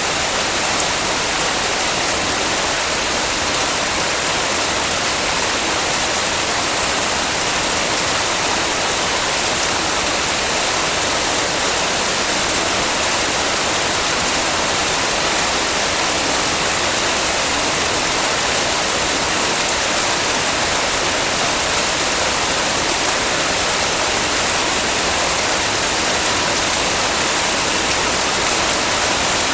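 Heavy rain falling, a steady, even hiss of water without breaks.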